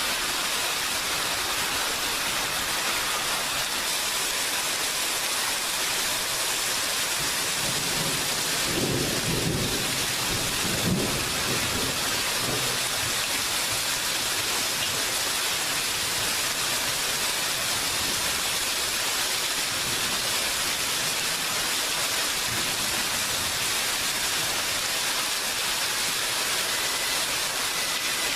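Steady rain hiss, with a low rumble of thunder rolling through about a third of the way in.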